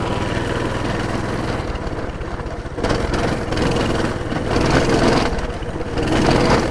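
Coleman minibike's small single-cylinder four-stroke engine running under way, its throttle rising and falling several times as the bike is ridden over rough trail.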